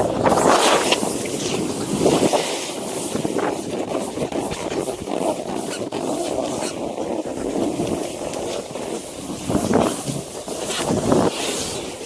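Snowboard sliding through deep powder snow with wind rushing over the microphone, a steady hissing rush that swells loudly several times.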